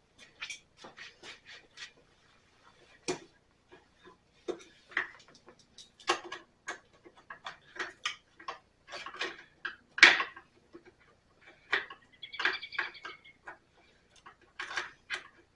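Irregular metallic clicks and clinks of hand tools being handled and set against metal, the loudest about ten seconds in.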